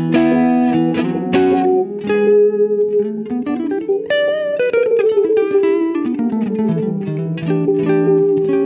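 Guitar played through a Poly Verbs impulse-response reverb pedal: plucked notes ring on and blend into sustained, reverberant tones. About halfway through, one tone glides up in pitch and then slowly back down.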